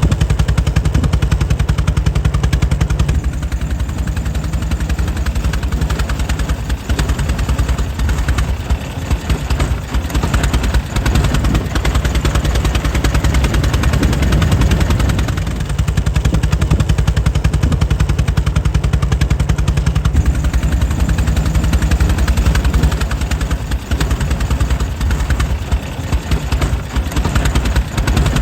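The air-cooled engine of a 1904 Mitchell running steadily, with a rapid, even string of firing beats. The engine's speed eases a little in places and then picks back up.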